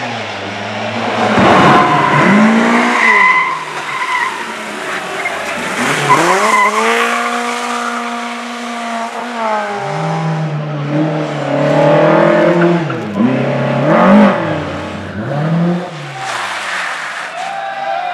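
Racing car engine at full effort, its pitch repeatedly climbing and then dropping with gear changes and lifts, and holding steady for a few seconds in the middle. Tyres squeal a few seconds in.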